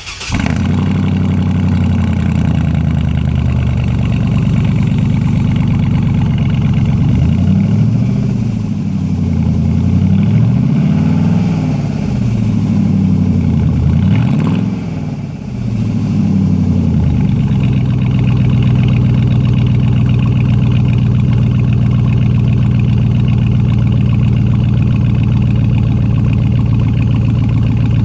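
2002 Chevrolet Silverado's 5.3-litre V8 through a true dual straight-pipe exhaust behind the stock catalytic converters, idling just after being started. Partway in it is revved up and down several times in quick blips, then settles back to a steady, slightly lower idle.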